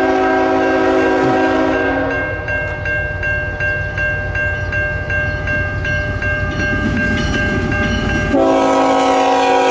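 CN freight locomotive's air horn sounding a long chord over the heavy rumble of the passing train; the lower notes of the chord drop out about two seconds in and the full chord comes back near the end.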